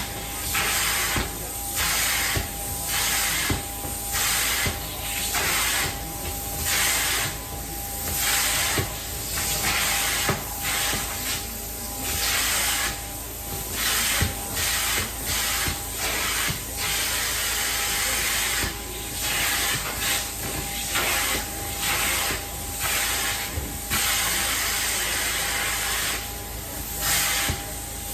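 Carpet-cleaning extraction wand hissing in repeated strokes, about one a second, the hiss of spray and suction surging and dropping as the wand is worked over the carpet, over a faint steady whine.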